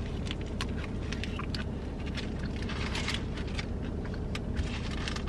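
Close-miked chewing of a bite of chicken pita: irregular wet mouth clicks and crackles over a steady low hum.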